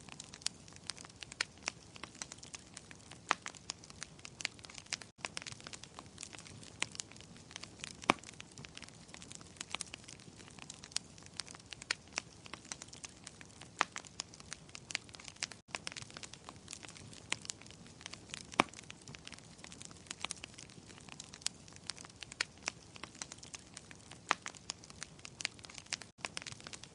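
Wood fire crackling in a fireplace: frequent sharp, irregular pops over a soft steady hiss.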